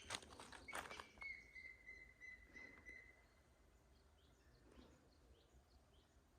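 Faint bird calls outdoors: a long steady high whistle, then a run of short falling chirps. A few soft clicks come near the start.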